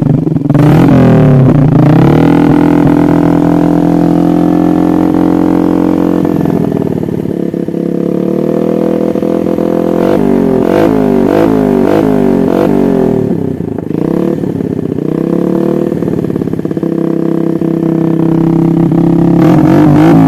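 Yamaha Jupiter single-cylinder four-stroke motorcycle engine with an Austin Racing aftermarket exhaust being revved while standing. It is held high early, eases off, gives a quick series of throttle blips about halfway, dips, then climbs again near the end.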